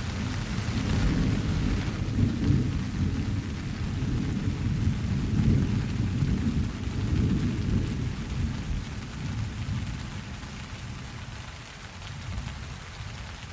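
Rolling thunder over steady rain: a deep rumble that starts at once, swells for several seconds and dies away after about ten seconds, while the rain hiss goes on beneath it.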